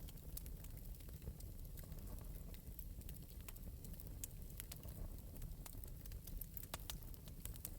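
Wood fire burning in an open metal fireplace, crackling and popping irregularly over a low steady rumble.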